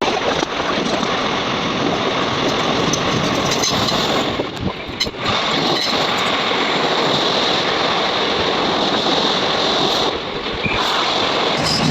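Steady, loud running noise of a moving passenger train, with brief dips about five and ten seconds in.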